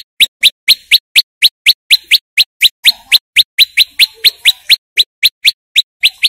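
Prenjak lumut songbird giving a fast, loud series of short, sharply rising chip notes, about four a second, which stops abruptly near the end.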